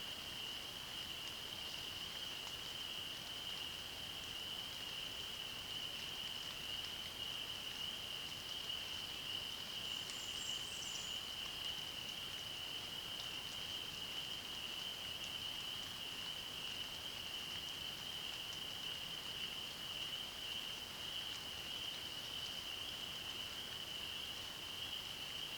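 Frog chorus calling as one steady, high-pitched trill over a soft, even hiss of rain. A single brief high bird call comes about ten seconds in.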